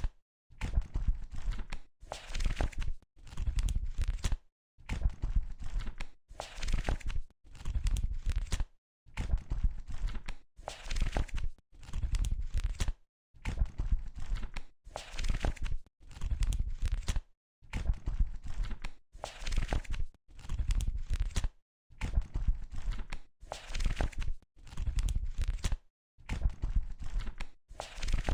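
Paper pages of a book being turned one after another, a rustle and flap about once a second with brief pauses between turns.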